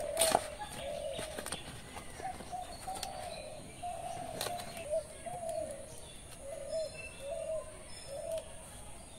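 A bird calling in the background with a repeated short, low, cooing note, about once or twice a second. A few light crackles of a banana leaf being handled and unfolded come in the first half.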